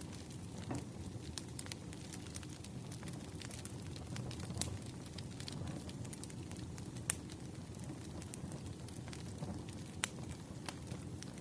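Firewood burning with a steady low rumble and scattered sharp crackles and pops; two of the pops, about 7 and 10 seconds in, stand out.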